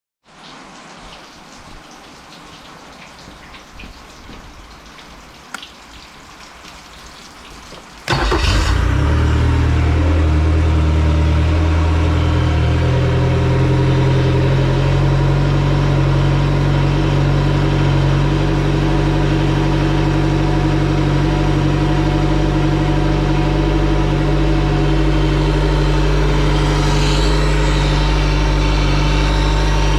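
A 2003 Mercury 115 hp EFI four-stroke outboard motor starting abruptly about eight seconds in, after a stretch of low background hum, then running steadily at idle. Its note shifts a few seconds after it catches before it settles.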